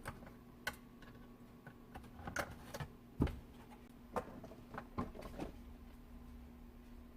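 Irregular clicks and light knocks, about a dozen over five seconds, from hands working on the Hyundai IONIQ 5's dashboard trim to remove the head unit. A faint steady hum runs underneath.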